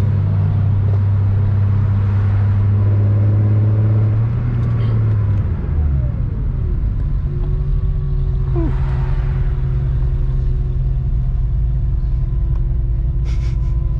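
Infiniti G35 coupe's 3.5-litre V6 and road noise heard from inside the cabin while driving; the strong engine hum eases off about four to five seconds in, then settles into a steady cruising drone.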